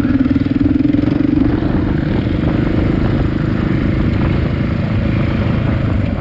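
Dirt bike engine running steadily under way, its pitch a little higher in the first second or so, then holding even.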